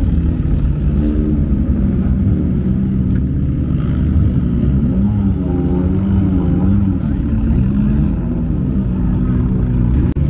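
Race car engine revving, its pitch rising and falling several times over a steady low rumble.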